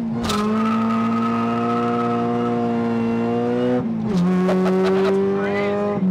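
Supercharged 2001 Acura Integra GS-R four-cylinder held at high revs with the front tires spinning in first gear. About four seconds in, a shift drops the pitch and it pulls on in second, still spinning the tires with some squeal. The wheelspin comes from the stock open differential.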